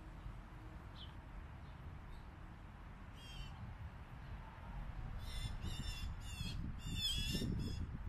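Harsh, scratchy bird calls: a single call about three seconds in, then a quick run of six or so from about five seconds to near the end, over a steady low rumble.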